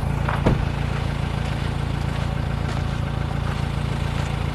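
Off-road ute's engine running steadily, with one short knock about half a second in.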